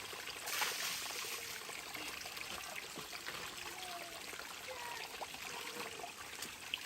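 Steadily running water, like a trickling stream, with a brief louder gush about half a second in.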